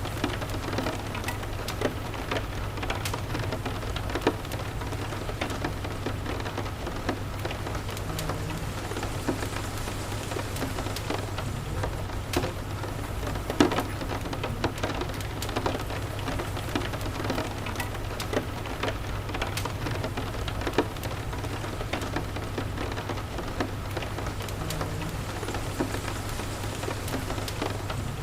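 Steady rain with a low, even rumble underneath, and scattered sharp crackles and pops from a wood fire. One pop about halfway through stands out louder than the rest.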